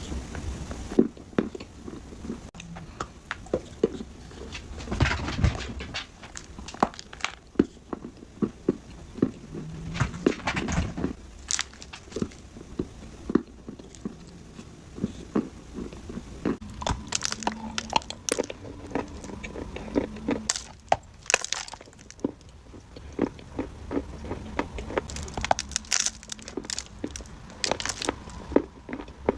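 Dry clay being bitten and chewed: irregular sharp crunches and cracks, several a second at times, with quieter grinding between.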